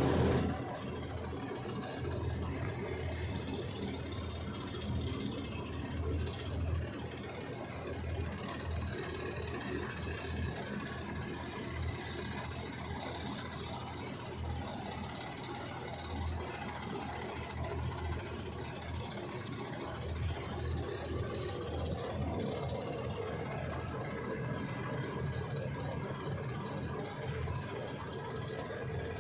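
Hyundai HX220 HD excavator's diesel engine running steadily, with an uneven low throb.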